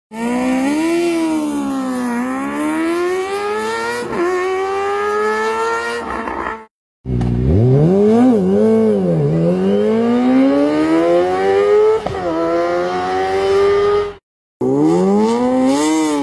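Kawasaki ZX-25R's inline-four engine revving through aftermarket exhausts, its pitch climbing and dropping repeatedly. Three clips of different exhausts are cut together, with two brief silent gaps between them.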